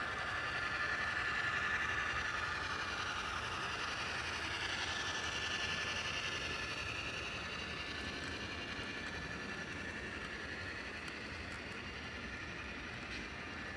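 HO-scale model train running on the track: a steady whir from the locomotive's motor and its wheels on the rails, with a whine that shifts in pitch partway through and grows a little quieter toward the end.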